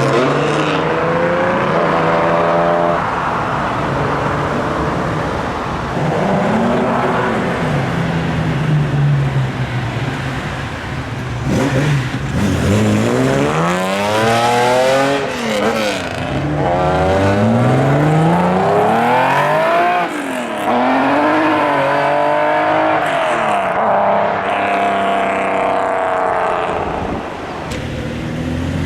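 Classic Japanese car engines revving hard and accelerating: the pitch climbs and drops again and again, with several sharp revs in the middle of the stretch.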